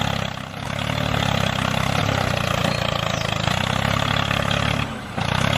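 Small motor of a DIY model tractor running steadily with a low hum and a hiss above it, dipping briefly twice, about half a second in and near the end.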